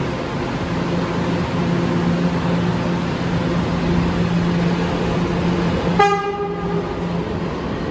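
New York City subway train running in the station with a steady hum and rumble, and a single horn blast lasting about a second, about six seconds in.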